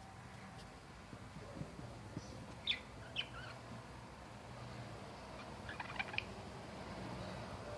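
Pet budgerigars giving short, sharp chirps: a couple about three seconds in and a quick cluster about six seconds in.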